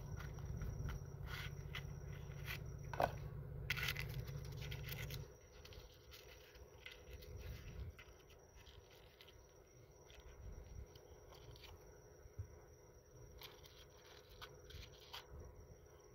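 Scattered scrapes and clicks, as of something being handled, over a low steady hum that stops about five seconds in.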